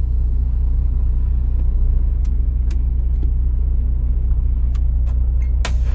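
Semi-truck diesel engine idling steadily with a low rumble, with a few sharp clicks over it.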